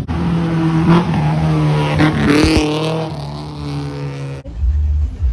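Car engine running with a steady hum, and a sweeping whine in the middle. It cuts off abruptly near the end, giving way to a deeper, lower rumble.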